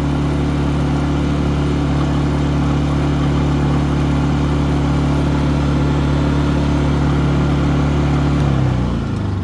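Harbor Freight Predator 3500 inverter generator running steadily, then shut off near the end, its engine note falling as it spins down.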